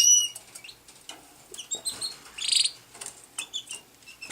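Pet canaries chirping: a sharp chirp at the start, scattered short high calls, and a brief buzzy trill about two and a half seconds in.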